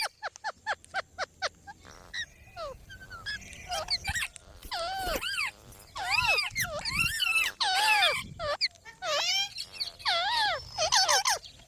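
Pet green parrots calling: a quick run of short, sharp chirps, then repeated arching squawks.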